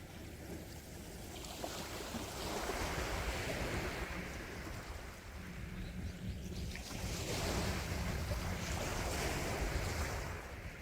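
Gentle sea waves washing onto the shore, two swells of surf rising and falling, with a low rumble of wind on the microphone.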